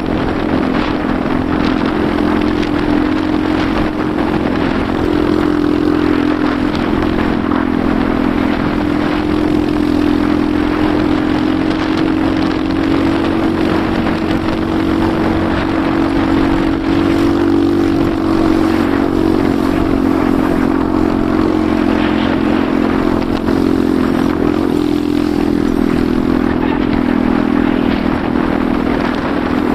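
Enduro motorcycle engine running at a fairly steady pace under way, its pitch wavering slightly with the throttle, with the rattle and clatter of the bike over rough forest track.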